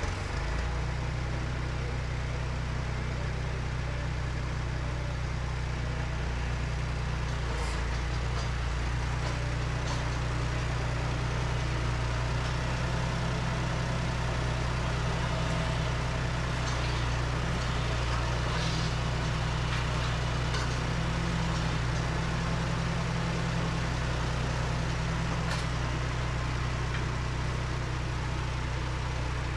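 Tractor engine running steadily at an even speed, with a few faint clanks.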